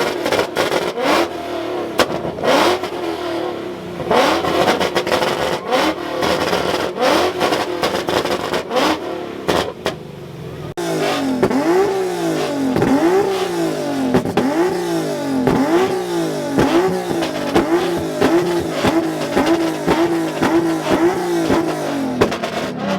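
Car engine being revved again and again, its pitch swinging up and down with each blip of the throttle. The first part is dotted with many sharp cracks. From about halfway the blips come in a regular run that gets quicker, about two a second near the end, then the revs fall away.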